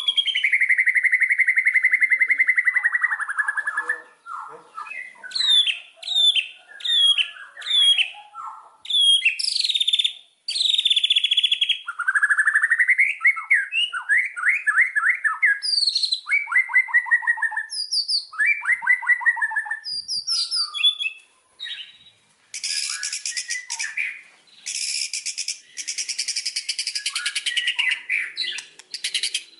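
White-rumped shama (murai batu) singing a long run of varied whistled phrases, sliding notes and fast trills. About two-thirds of the way through, the song turns into a loud, harsh, rapid chatter.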